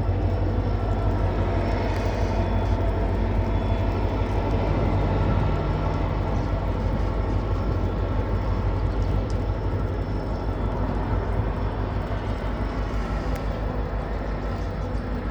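WDP4G diesel locomotive running steadily, a loud low engine drone with the rumble of the train over it; the engine note shifts slightly about five seconds in.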